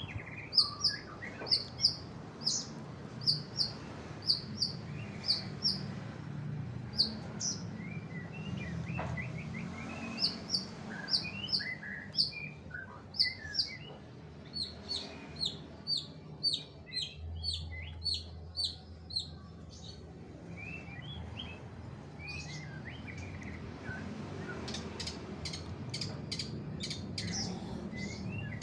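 Long-tailed shrike (cendet) singing: runs of short, sharp, repeated chirps, ending in a fast burst of clicking notes.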